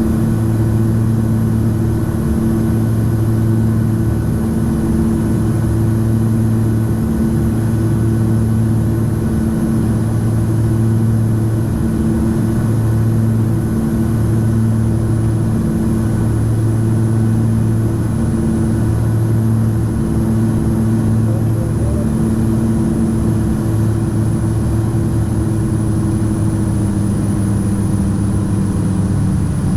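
Cessna 340's twin piston engines and propellers droning steadily in the cockpit on short final. The two engines are slightly out of sync, so the drone swells and fades every couple of seconds. Near the end the pitch drops as power comes back.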